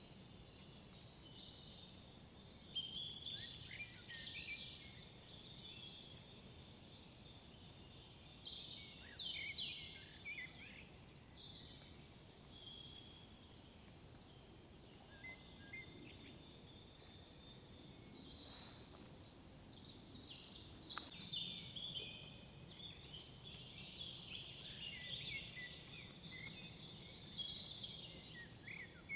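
Several songbirds singing in woodland: overlapping chirps and warbled phrases, with a very high, thin trill recurring every several seconds, over a faint steady background hum of the forest.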